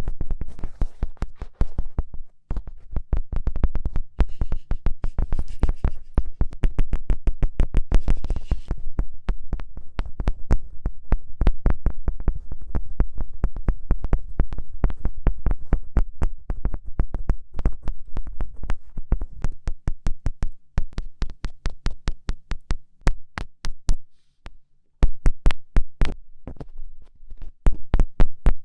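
Rapid fingertip taps and pokes close to the microphone, several a second, each a sharp thump with a heavy low end. There are brief pauses about two seconds in and again near the end.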